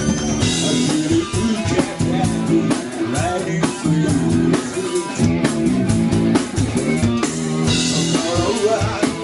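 Live rock band playing an instrumental intro: electric guitar with bass and a steady drum-kit beat.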